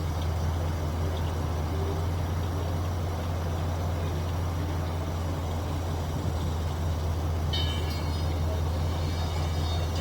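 An engine running steadily at a constant speed, a loud low hum that does not change. A few faint higher tones come in near the end.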